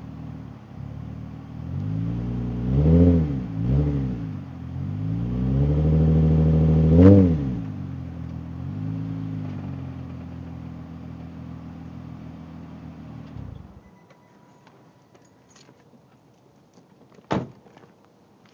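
Car engine idling through a newly fitted aftermarket exhaust, blipped twice about three and four seconds in, then revved up in one longer climb and let drop back to idle. The engine is switched off about fourteen seconds in, and a single sharp click follows a few seconds later.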